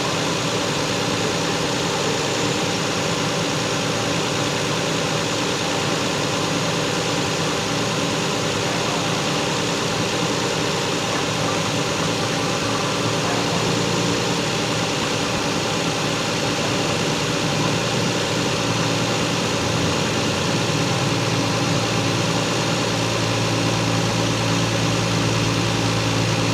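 Stock Lexus GS300's 2JZ straight-six engine idling steadily. About three-quarters of the way through, a deeper hum comes in and holds.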